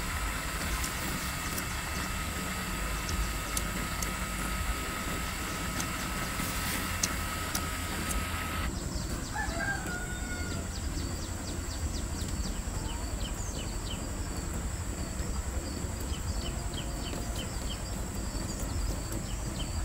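Birds calling over a steady low rumble: one longer, curving call just after the midpoint, then a run of short, high chirps. About halfway through, the background hiss and a steady high tone cut off suddenly.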